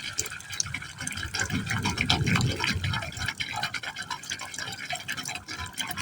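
Water falling into a hole in a pipe, splashing and gurgling irregularly, with a deeper hollow gurgle swelling about two seconds in.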